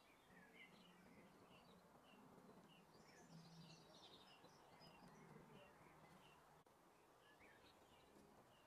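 Faint bird chirping: short high chirps repeating about twice a second, with a busier twittering about three seconds in, over a low steady hum.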